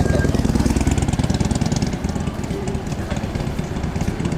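Steady low engine rumble with fast, even pulsing, like a vehicle idling, under a hiss of street noise.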